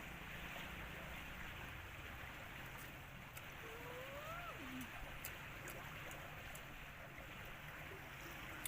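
Faint, steady outdoor background noise, with one brief call that rises and then falls in pitch about four seconds in, and a few faint ticks.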